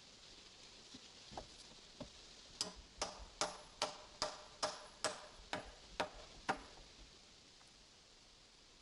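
A hammer striking about ten times in quick, even succession, two or three blows a second, each with a short metallic ring, after a few lighter knocks.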